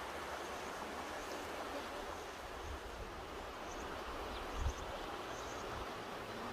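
Mountain river rushing, a steady wash of water noise, with low rumbles of wind on the microphone, the strongest about four and a half seconds in.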